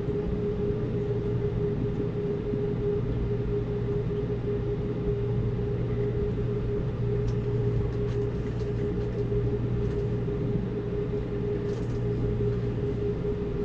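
Amtrak Cascades passenger train rolling along, a steady low rumble with a constant hum over it and a few faint ticks.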